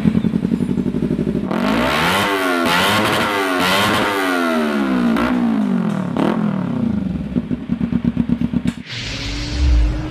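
Motorcycle engine idling with a pulsing beat, then revved up and down repeatedly for several seconds before settling back to idle. Near the end it cuts suddenly to another engine running at a steady pitch.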